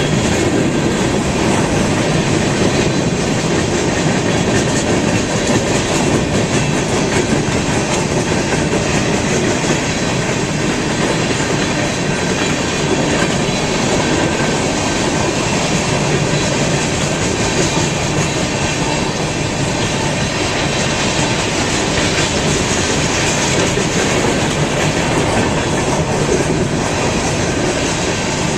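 A BNSF train rolling steadily on the rails, a continuous rumble of steel wheels on track with no let-up.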